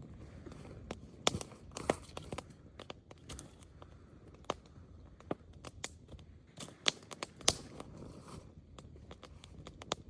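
Wood fire crackling, with irregular sharp pops, some louder than others.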